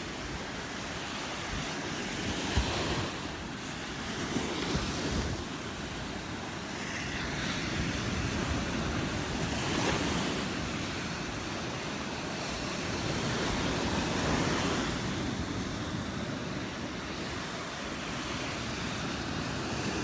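Gulf of Mexico surf breaking on the beach, the wash swelling and falling every few seconds, with wind buffeting the microphone. A couple of short bumps stand out in the first five seconds.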